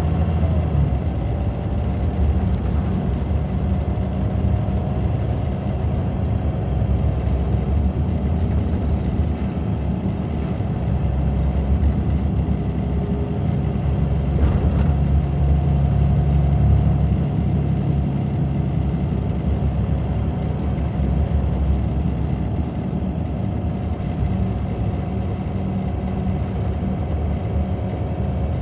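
Scania K94 bus's Scania DC9 five-cylinder diesel engine running steadily with a low drone, getting a little louder for several seconds around the middle.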